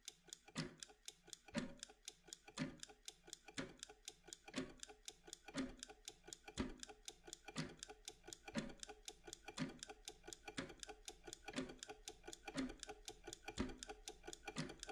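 Steady clock-style ticking of a timer: rapid light ticks, several a second, with a heavier tick about once a second.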